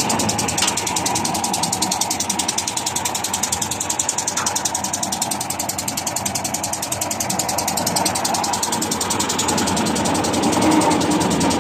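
Air-cooled Lister Petter diesel engine of a Winget 400R concrete mixer running steadily, with a fast, even beat.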